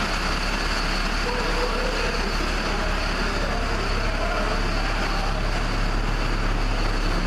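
Steady low machine hum under an even rushing noise, unchanging throughout.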